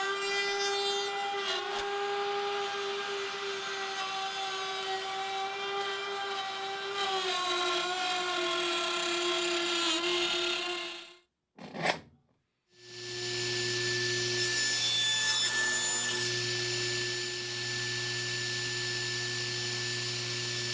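Router table's router motor running with a steady high whine while cutting a slot in a wood piece, its pitch sagging slightly under the cut. About halfway it breaks off. A different power tool with a lower hum then runs steadily on wood.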